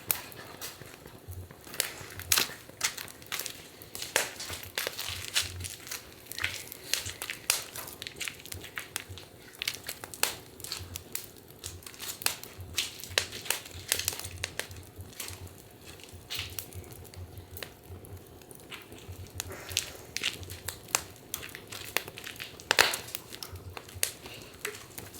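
Wood fire crackling, with frequent irregular sharp pops and snaps.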